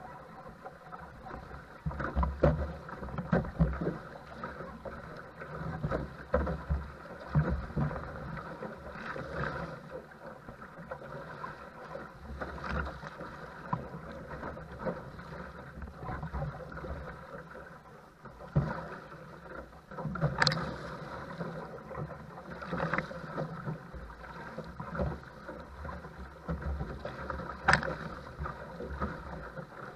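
Choppy, wind-driven water slapping and splashing against a paddle craft as it is paddled through the waves, with wind buffeting the microphone. Irregular sharp slaps come throughout; the two loudest fall about two-thirds of the way in and near the end.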